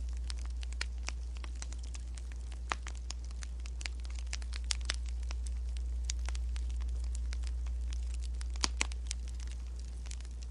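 Wood fire crackling: irregular sharp pops over a steady low rumble, with two louder pops close together near the end.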